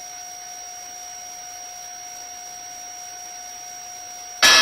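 A steady electrical tone, a thin hum with a fainter high whine above it, over faint hiss on a helicopter's intercom/radio audio feed while no microphone is keyed. Near the end the line opens again with a sudden burst of loud cabin noise.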